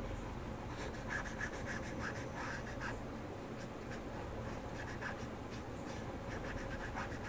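Colouring on paper: quick scratchy back-and-forth strokes, in bunches with short pauses, over a steady low hum.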